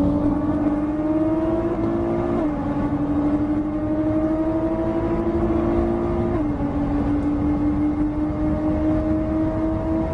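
Nissan GT-R R35's twin-turbo 3.8-litre V6 pulling under acceleration. Its steady engine note climbs slowly in pitch and drops abruptly twice, about two and a half and six and a half seconds in, as it shifts up.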